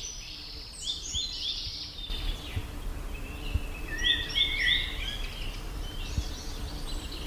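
Birds singing in short chirping phrases, repeated in bunches over a faint steady background hiss.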